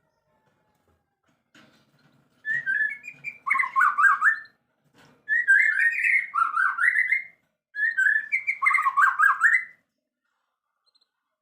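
A songbird singing three phrases of quick whistled notes, each about two seconds long, the notes sliding up and down: tutor song of the kind played to train white-rumped shamas (murai batu).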